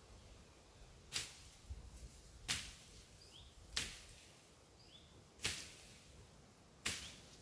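Ontario Bushcraft machete chopping through brush: five sharp strokes about a second and a half apart.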